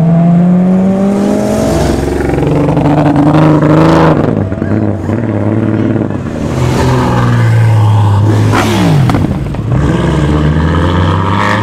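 Car engines revving and accelerating, loud and continuous. One engine's pitch climbs near the start, and another's drops steeply about nine seconds in.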